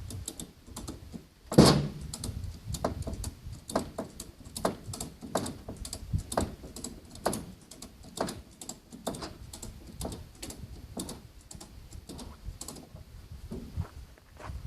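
Ratchet strap being cranked tight: a long run of sharp ratchet clicks, several a second, with one loud metallic knock about one and a half seconds in.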